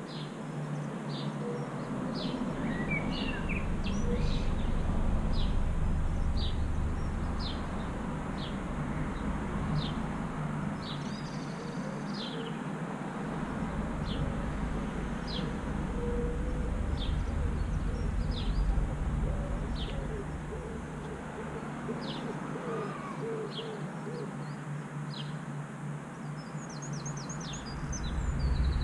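A songbird calling over and over, a short high falling note about once a second. Beneath it runs a steady low hum, most likely the boat's engine, with a low rumble that swells and fades.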